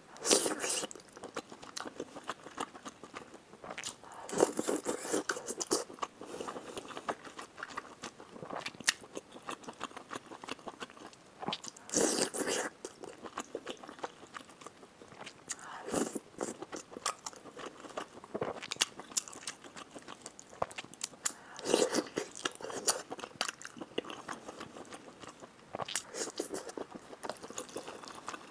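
Close-miked mouth sounds of biting and chewing soft, chewy braised pork intestine rolls, wet and smacking, with a louder bite or slurp every few seconds.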